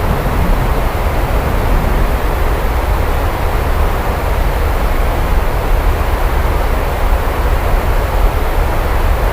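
Steady, heavy rain with a constant deep low rumble underneath and no sharp claps.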